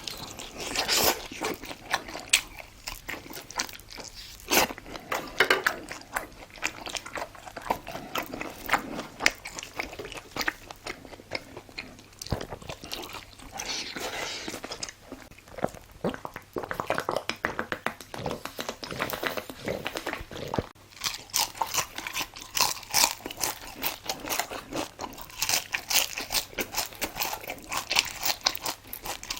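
Close-miked chewing and biting of crunchy food, with a dense, irregular run of crisp crunches and mouth sounds.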